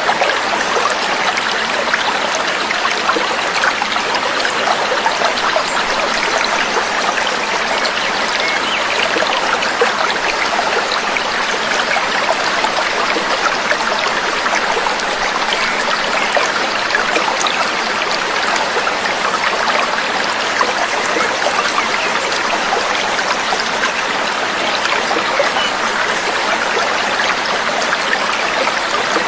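Trickling, babbling water running steadily with no change, a gentle stream-like splashing without any bird song over it.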